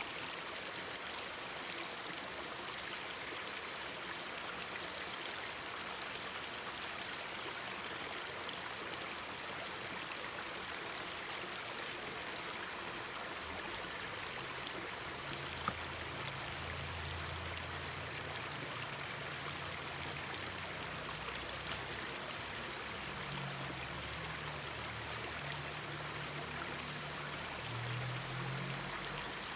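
Mountain stream babbling steadily over rocks. About halfway through a low hum comes in beneath it and keeps shifting in pitch, and there is a single sharp pop.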